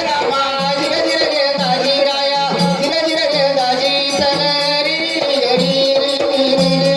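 Marathi folk devotional music (kalgi shahiri): sustained melodic tones over a steady drone, with continuous jingling, shaker-like percussion and some singing.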